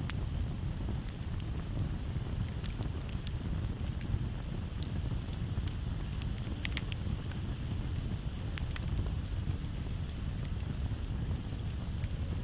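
Campfire crackling, with scattered sharp pops over a low, steady rumble. Crickets trill steadily in the background.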